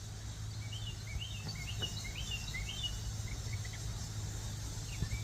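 Carolina wren singing a fast run of repeated chirping phrases about a second in, starting again near the end, over a steady low rumble.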